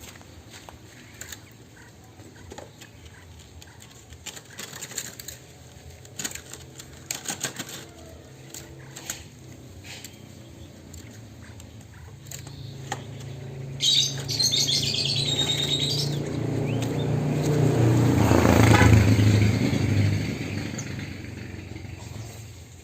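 Chinese hwamei fluttering its wings in short bursts in its cage. Past the middle a louder low engine-like drone swells and fades, and a brief high burst of chirping comes with it.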